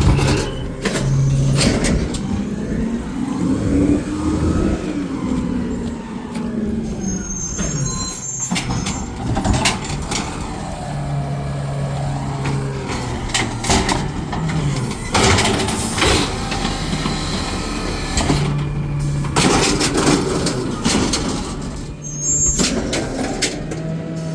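A garbage truck's engine running, revving up and back down early on, with several loud air-brake hisses and a couple of brief high squeals.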